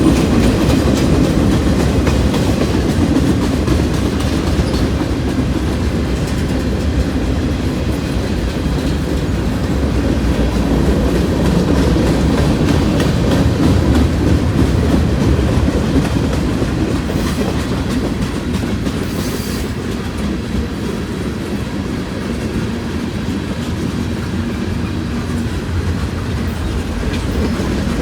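Freight train cars rolling past, steel wheels clacking steadily over the rail joints with a continuous rumble.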